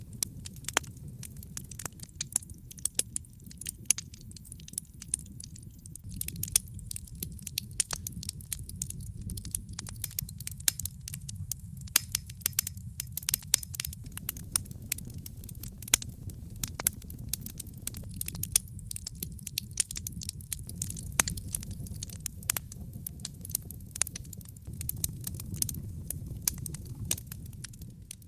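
Wood campfire crackling: many sharp, irregular pops and snaps over a steady low rumble of the burning fire.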